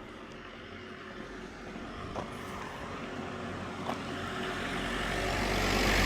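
A motor vehicle approaching, its engine hum and tyre noise growing steadily louder toward the end.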